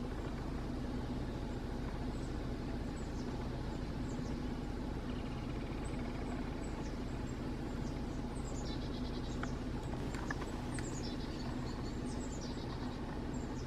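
Small songbirds calling: scattered short, high chirps that fall in pitch, with quick runs of notes in the second half, over a steady low rumble.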